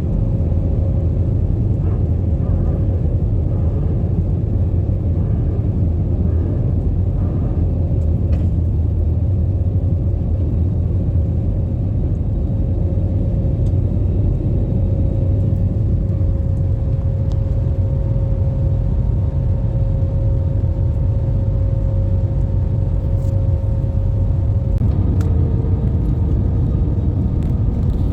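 Airliner cabin noise: a steady low rumble of the engines and air-conditioning airflow, with a steady hum that drops slightly in pitch about 25 seconds in.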